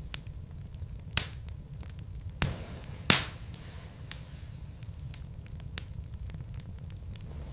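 Wood logs burning in a fireplace, crackling over a low steady rumble of the flames. Small ticks run throughout, with three sharper pops in the first half, the loudest about three seconds in.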